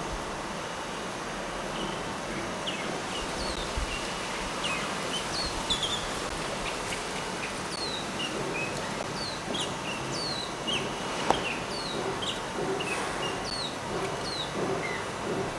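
Small songbirds chirping: many short, quick notes that each fall in pitch, scattered at different pitches throughout, over a steady outdoor background hiss. A single sharp click sounds about eleven seconds in.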